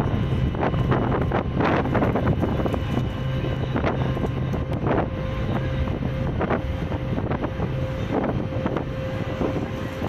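Ferry engine running steadily with a constant low hum, with wind gusting on the microphone.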